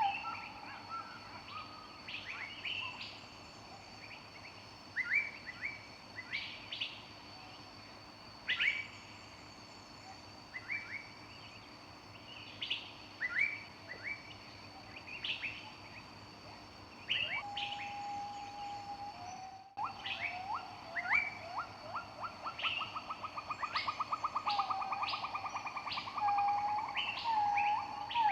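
Several songbirds in a forest chorus, with short, sharp chirps scattered throughout. Past the middle one bird holds a steady whistled note, and near the end a fast trill of rapid repeated notes comes in.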